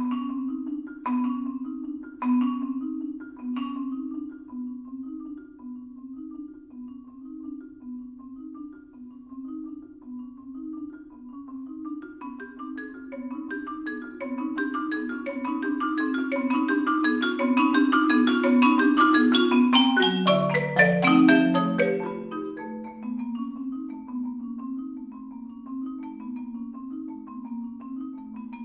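Two marimbas and a vibraphone playing a soft repeating figure of mallet notes, with a few sharp, bright strikes in the first few seconds. About halfway through it swells into a dense flurry of fast notes, which falls away in a descending run and settles back into the quiet repeating figure.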